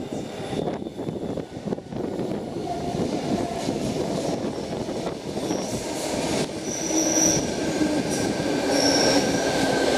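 A Sydney Trains Tangara electric train pulling into the platform, growing louder as it comes in. Thin high squeals from the wheels and brakes come in the second half.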